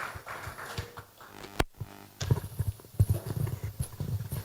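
Footsteps on a hard floor: irregular low thumps and knocks, with a single sharp click about a second and a half in.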